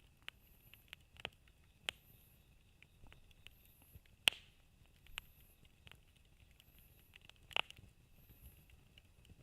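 Wood campfire crackling: scattered sharp snaps and pops over a low hiss, with two louder pops about four and seven and a half seconds in.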